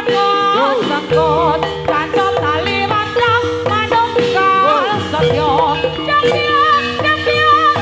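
Traditional Javanese folk music accompanying a gedruk dance: a steady held tone under a melody that wavers and slides in pitch.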